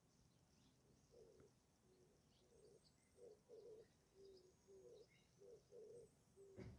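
A dove cooing faintly: short, low hooting notes in repeated phrases, with faint high chirps of other birds behind.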